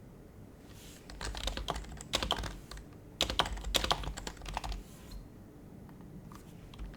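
Typing on an HHKB Professional HYBRID Type-S keyboard with its silenced Topre capacitive switches: two quick runs of keystrokes, then a few single presses near the end.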